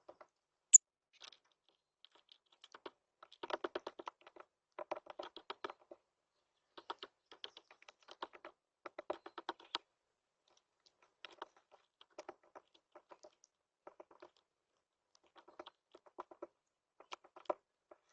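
A bird pecking at seed close to the microphone: bursts of rapid taps, each burst about a second long, with one sharp click near the start.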